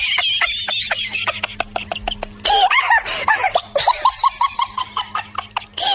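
High-pitched laughter in rapid runs of short 'ha' bursts, about six a second, with breathy staccato giggles between them and abrupt jumps from one stretch of laughing to the next.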